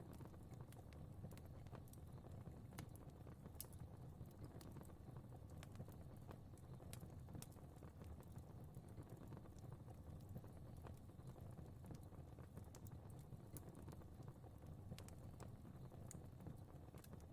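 Quiet fire crackling: irregular small pops and snaps over a low, steady rumble of flames.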